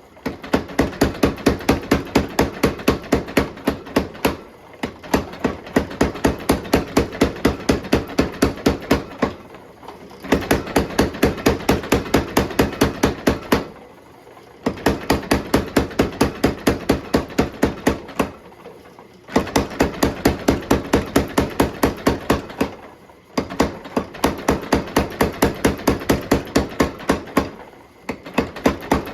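Hammer blows on a hot steel bar on an anvil, struck fast and evenly at about four a second in runs of several seconds with brief pauses between them; a steady ring sounds under the blows.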